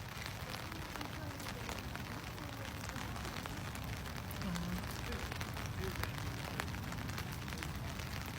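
Steady outdoor background noise with many small crackles and clicks, and faint distant voices.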